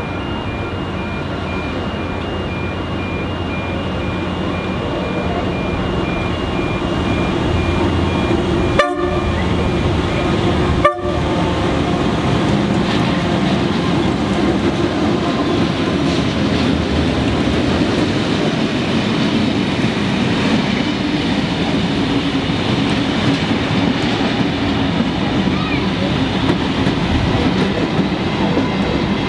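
Two diesel locomotives, GL101 and FL220, hauling a heritage passenger train approach and pass close by. Their engine rumble grows steadily louder, then the coaches roll past with wheels clattering on the rails. The sound drops out twice, briefly, about nine and eleven seconds in.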